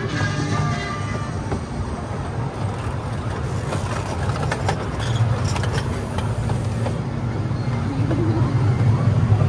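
The Casey Jr. Circus Train ride train running along its track: a steady low rumble with a few light clicks partway through, growing louder near the end.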